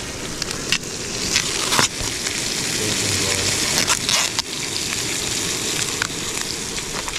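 Home-made chips frying in hot oil with onion and garlic in a pan: a steady loud sizzle with crackles and pops throughout.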